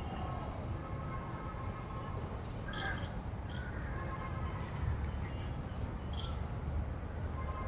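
Insects droning steadily at a high pitch, with a few short chirps and a low rumble underneath.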